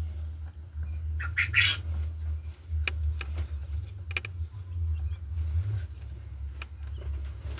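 Pet quail making short chirps, with scattered small clicks and knocks, over a steady low hum.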